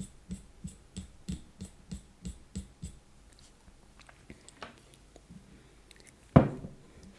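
Quick, rhythmic ASMR tapping, about three taps a second, which stops about three seconds in. After it come a few light scattered clicks and one louder knock near the end.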